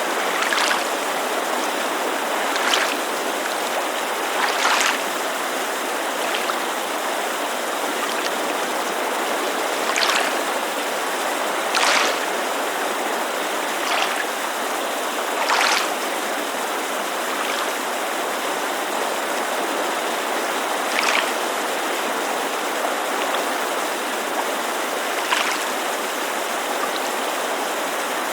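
Steady rush of a mountain creek, with small waves lapping against a lakeshore in brief, irregular splashes every couple of seconds.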